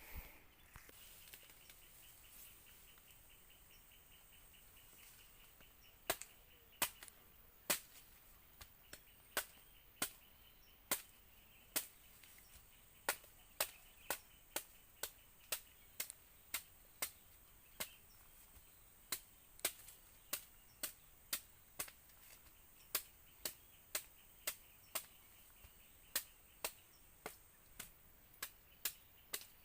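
Machete chopping into a young coconut's husk to open it: sharp separate strikes, roughly one or two a second, starting about six seconds in and going on steadily. Faint insects buzz in the background.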